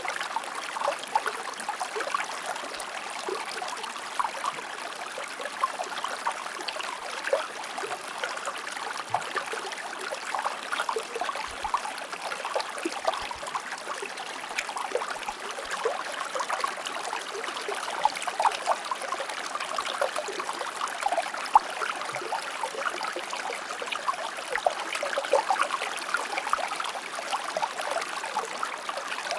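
Shallow stream flowing steadily over rocks, a continuous babble of small splashes and trickles.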